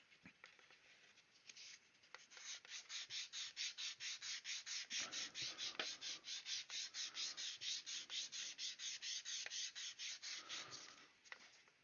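Hand sanding on a plastic model kit: quick, regular back-and-forth rubbing strokes that begin about two seconds in and stop near the end.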